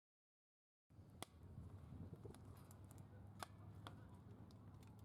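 Faint wood fire burning in a secondary-combustion fire pit: a low steady rumble with a few sharp crackles and pops. The sound cuts in suddenly about a second in, out of dead silence.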